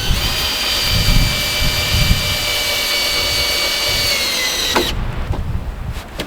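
Cordless drill running with a steady high whine, dropping slightly in pitch and stopping about five seconds in, over wind buffeting the microphone.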